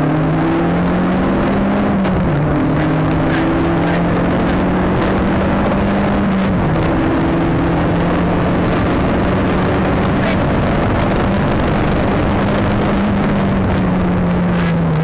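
Nissan Sunny GTi-R rally car's turbocharged four-cylinder engine, heard from inside the cabin under hard acceleration. The revs rise, drop at a gear change about two seconds in, and rise again to a second change. They then hold fairly steady and fall off near the end, over steady road and wind noise.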